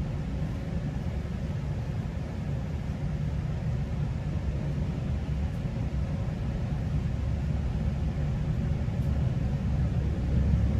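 Steady low rumble of a GO Transit commuter train running between stations, heard from inside a passenger coach, with faint steady tones over the rumble. It grows slightly louder near the end.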